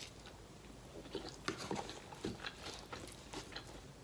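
A person chewing food close to the microphone: irregular small mouth clicks and crunches.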